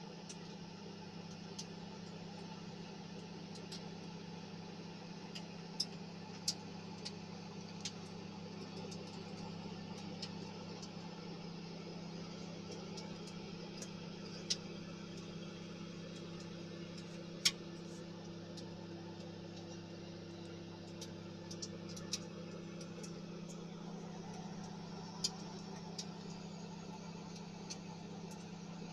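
Steady low electrical hum with a faint hiss, broken by scattered sharp clicks at irregular intervals, the loudest about two thirds of the way through.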